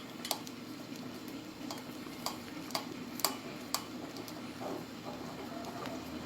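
A screw being twisted into a wine bottle's cork: light, irregular clicks about one or two a second, over a low steady hum.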